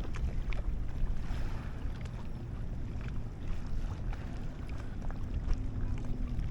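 Wind buffeting an action camera's microphone on an open boat: a steady low rumble with scattered small clicks and knocks, and a faint steady hum coming in about four seconds in.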